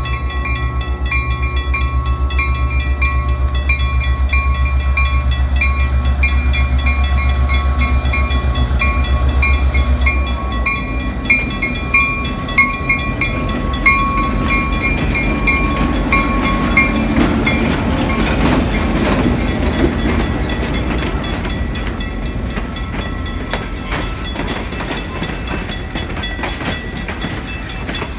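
Train on the rails: a loud, steady low engine throb with a fast even pulse for about the first ten seconds, then a rattling rumble with scattered clicks from the cars rolling on the track, slowly easing off.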